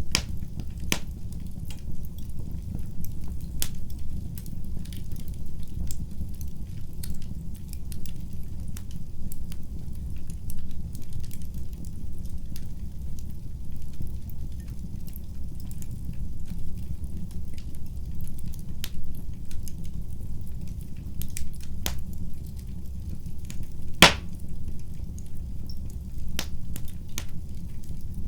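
Wood fire burning in a fireplace: a steady low rumble of flame with scattered sharp crackles and pops, one louder pop about 24 seconds in.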